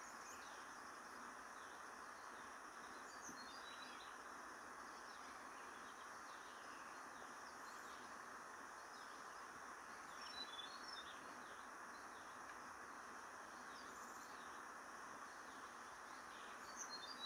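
Faint outdoor ambience: a steady background hiss with a few short, high bird chirps, about three seconds in, around ten seconds in, and again near the end.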